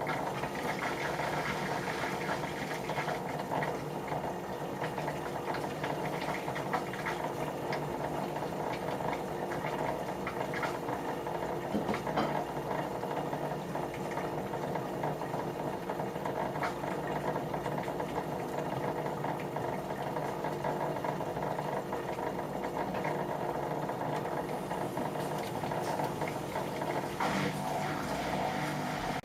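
Whirlpool washing machine running its wash motor on a cold cycle: a steady mechanical hum with water and small clicks churning through it. It starts suddenly and cuts off near the end.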